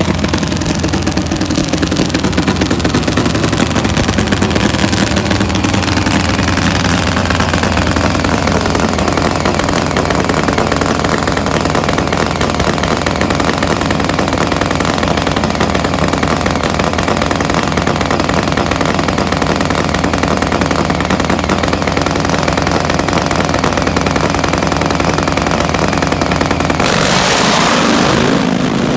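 Nitro-burning Pro Fuel Harley drag bikes' V-twin engines running loudly and unevenly, with changes in pitch, then a sudden louder, harsher rush near the end.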